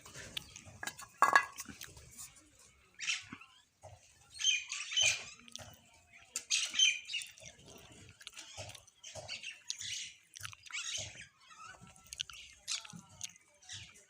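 Small birds chirping and calling in short, separate bursts, with one louder, sharp sound about a second in.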